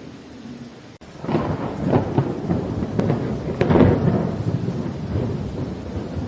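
A thunderclap over steady rain: it crackles in about a second in, peaks near four seconds, then rolls off into a low rumble.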